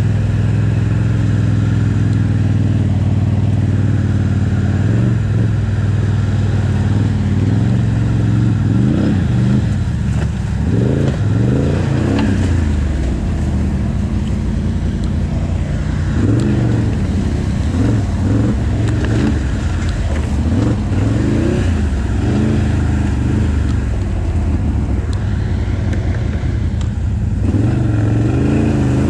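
Quad (ATV) engine running under the rider's throttle, its pitch rising and falling again and again as the machine is ridden.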